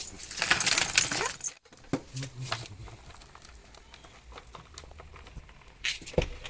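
Crinkling, rustling handling noise for about the first second and a half, then a sudden break followed by scattered faint clicks and taps, with a short rustle near the end.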